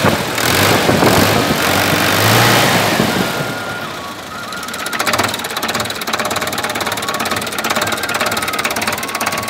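Sonalika Tiger 60 Max tractor's diesel engine running: louder and pulsing for the first three seconds or so, then dropping back to a steady idle with a fast, even beat.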